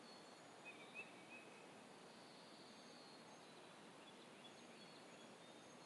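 Near silence: faint outdoor background with a few faint, short high chirps.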